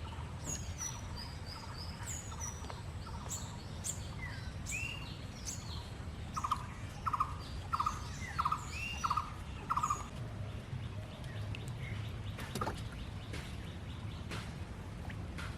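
Several birds chirping and calling in short whistled notes. In the middle comes a run of six short, rattling calls about two-thirds of a second apart, over a steady low rumble.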